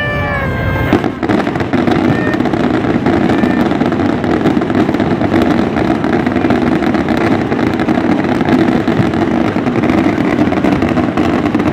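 Fireworks going off in a dense, continuous barrage of rapid bangs and crackling from about a second in. A held tone dips slightly in pitch and ends just before it.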